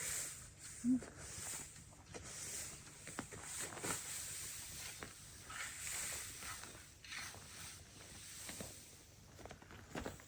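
Faint footsteps outdoors with scattered small clicks and knocks, and a brief low sound about a second in.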